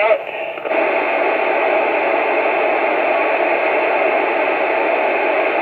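CB radio receiving steady static hiss between transmissions, kicking in sharply about a second in and holding level.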